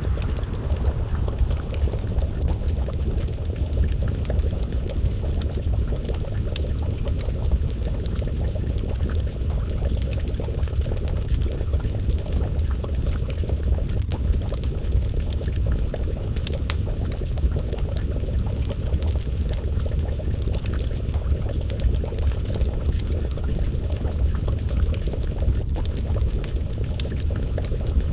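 Wood fire crackling with a scatter of sharp pops, over a steady low rumble and the bubbling of a pot of stew simmering on the flames.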